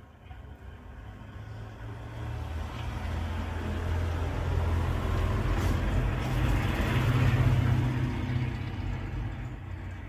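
A motor vehicle passing by: a low engine rumble that grows steadily louder, peaks about three quarters of the way through, then fades away.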